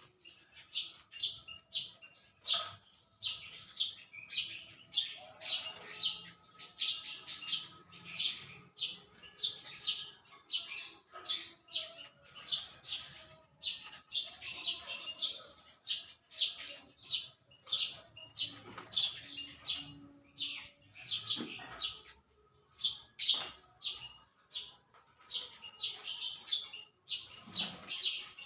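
Small birds chirping: a continuous run of short, high chirps, two or three a second.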